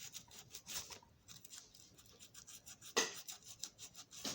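Short, scratchy rubbing and scraping strokes from hand work on a small metal toy locomotive, with two sharper clicks, about three seconds in and near the end.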